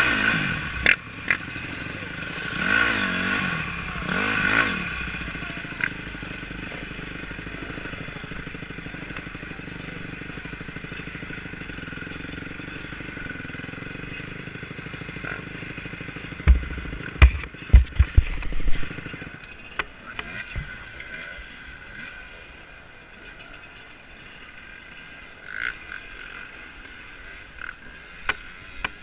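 Off-road motorcycle engine running steadily, revving up and down a couple of times near the start. About two-thirds of the way through comes a cluster of heavy knocks and thumps.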